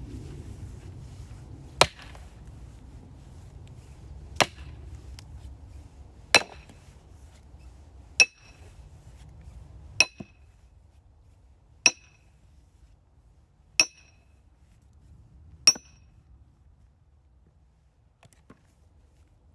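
Eight hard blows from a tool splitting firewood, about two seconds apart. From the fourth on, each ends in a short ring, and the later ones ring clearly, like metal striking metal.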